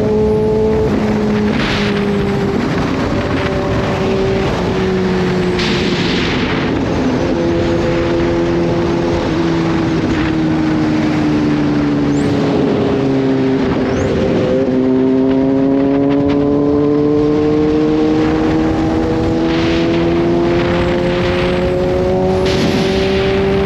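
Kawasaki Z H2's supercharged inline-four engine running on the road: its pitch falls in small steps through the first half as the bike slows, then rises steadily from about halfway as it accelerates. Short rushes of noise come and go over it.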